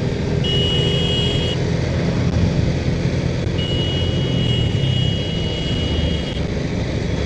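Small single-cylinder 110cc TVS Metro Plus motorcycle engine running while riding, with road and traffic noise. A steady high-pitched tone sounds twice: briefly about half a second in, then again for about three seconds in the middle.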